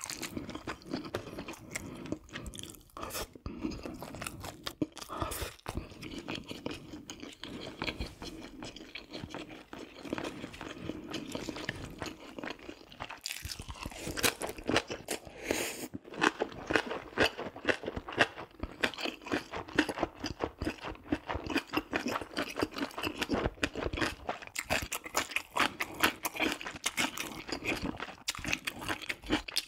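Close-miked chewing and crunching of food in the mouth: a steady run of quick clicks, busier and louder in the second half.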